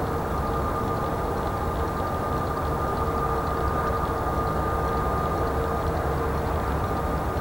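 Airbus A320neo's CFM LEAP-1A jet engines running steadily: a low rumble with two steady whining tones over it.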